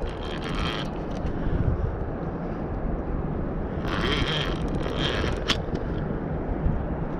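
Fishing reel's drag clicking in two short spells as a hooked catfish pulls line off the reel, over a steady low rumble.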